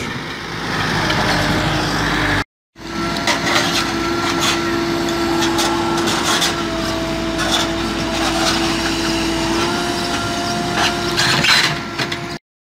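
Diesel earthmoving machine at work: the engine runs under load with a steady whine, over scattered knocks and clatter of debris. The sound cuts out briefly twice.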